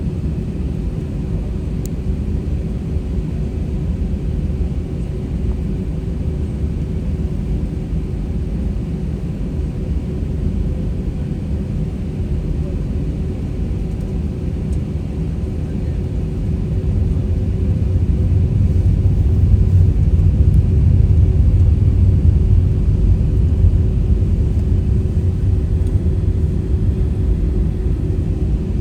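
Cabin noise inside an Airbus A320-200: a steady deep engine rumble with a constant hum. It swells louder a little past halfway, then eases slightly near the end.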